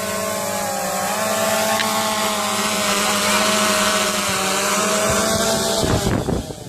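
DJI Phantom quadcopter drone flying close by, its motors and propellers giving a steady buzzing hum whose pitch wavers slightly. About six seconds in, the pitch falls and the sound drops away quickly.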